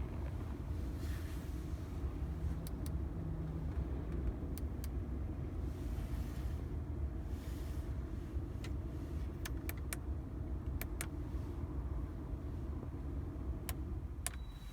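Audi A6 C6 climate-control blower running with the engine off on the Rest function: a steady low whir with scattered light clicks. Near the end there is a click and a short, thin high tone.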